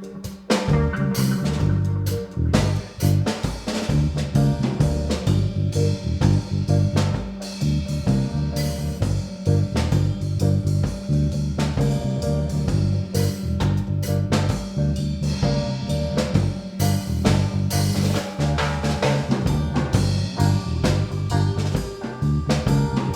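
A band playing live, with drum kit and guitar, a steady groove with a strong low end.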